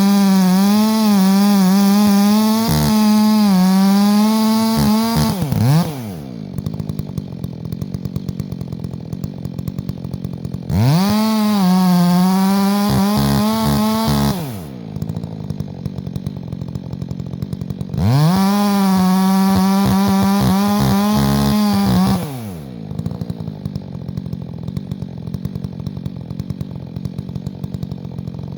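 Chainsaw engine run up to high revs three times, each burst lasting about four to five seconds with a wavering pitch, and dropping back to a ticking idle in between.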